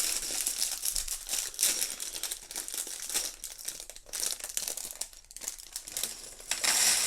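A plastic Lego parts bag crinkling and crackling as it is handled, with a louder burst of crinkling near the end.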